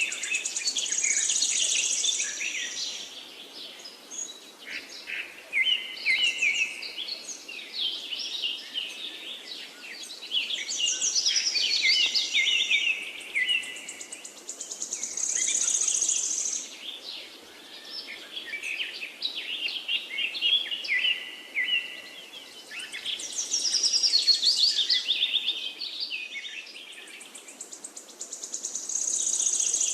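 A songbird singing: phrases of rapid, high chirps and trills repeated every few seconds over a steady background hiss.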